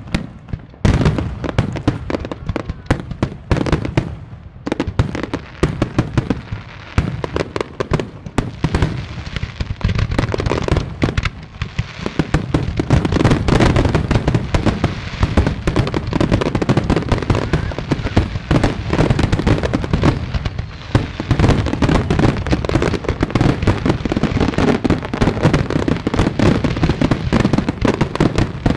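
Fireworks finale: aerial shells bursting in rapid, overlapping bangs with crackling, the barrage thickening into a near-continuous rumble after about twelve seconds.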